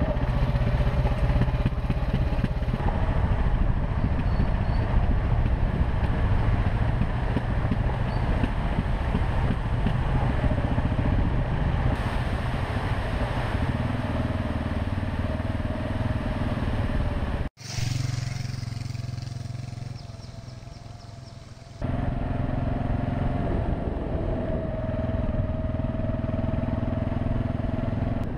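Husqvarna TR650 Terra single-cylinder motorcycle engine running steadily under way. About two-thirds of the way through, the sound cuts off abruptly and returns quieter for about four seconds, then comes back at full level.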